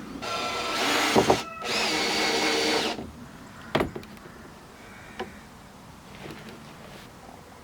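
Cordless drill running in two short bursts of about a second each, with a brief pause between them, followed by two sharp knocks.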